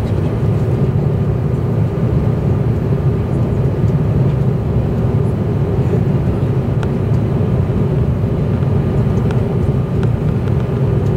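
Airbus A330-200 airliner during its landing: a steady, loud low rumble of engine and airflow noise with a faint steady hum above it.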